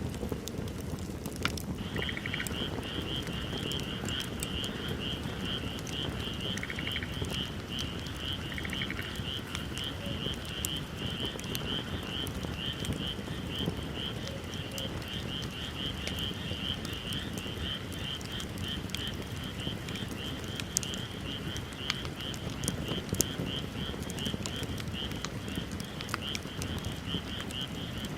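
Wood bonfire burning, with a steady low rush and scattered sharp crackles and pops. About two seconds in, an even, rapidly pulsing high chirp from a small animal starts and keeps on, with a few short lower chirps in the first ten seconds.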